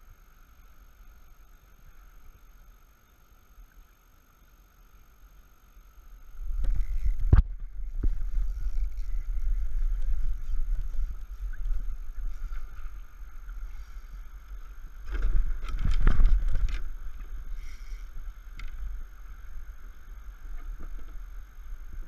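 Knocks and heavy rumbling noise on a fishing kayak, with a sharp knock about seven seconds in, after a quieter start. A steady high hum runs underneath.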